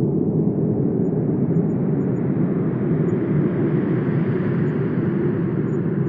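Wind blowing steadily, a low rushing noise that swells into a brighter gust about four seconds in and eases off again.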